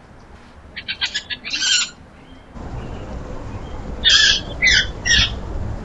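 Outdoor bird calls: a quick run of short notes followed by a harsher call about a second in, then three loud, harsh calls about four seconds in. Underneath, a low rumble of wind on the microphone rises about halfway through.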